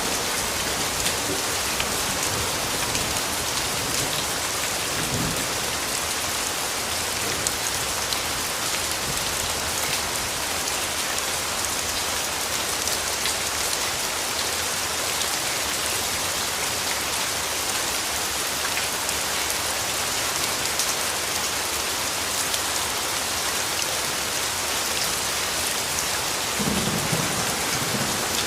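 Steady rain falling on a surface, a dense even hiss with individual drops ticking through it. A brief low rumble of distant thunder comes near the end.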